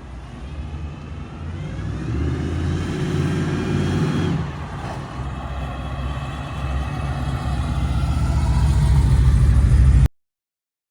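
1978 Chevrolet Malibu's engine accelerating. The engine note rises, drops suddenly about four seconds in as the transmission shifts up, then builds and gets louder until the sound cuts off abruptly near the end.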